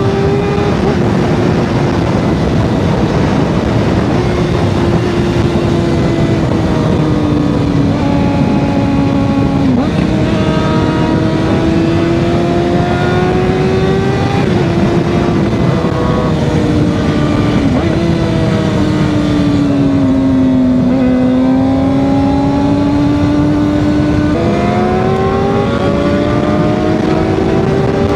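Sportbike engine running at riding speed, heard from the rider's helmet camera over wind rush. Its pitch drifts slowly up and down, with several sudden steps at gear changes. The exhaust has been taken off, so the engine is loud.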